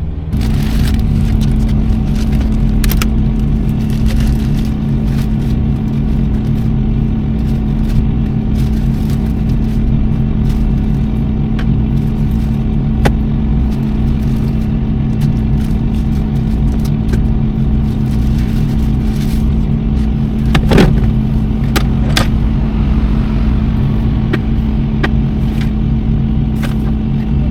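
Vehicle engine running steadily with a low rumble and an even hum, with scattered clicks and rustling and one louder knock about three-quarters of the way through.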